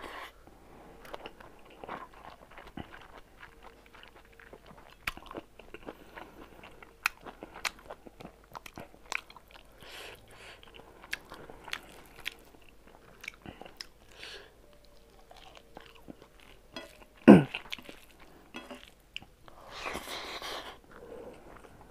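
Close-miked mukbang eating sounds: a person chewing and crunching mouthfuls of rice and smoked pork eaten by hand, with frequent sharp mouth clicks and smacks. One much louder low thump comes about two-thirds of the way through.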